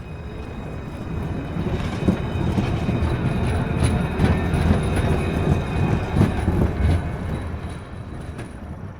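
Railroad train passing: wheels clacking over rail joints with a thin squeal above, swelling in and then fading away.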